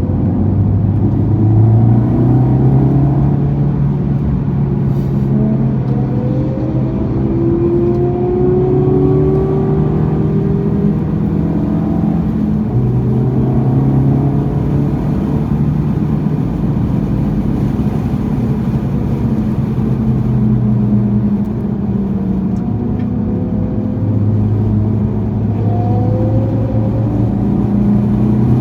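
Honda Civic Type R FL5's turbocharged 2.0-litre four-cylinder running through a Mugen exhaust under load on track. The engine note rises and falls repeatedly as the car accelerates, shifts and slows.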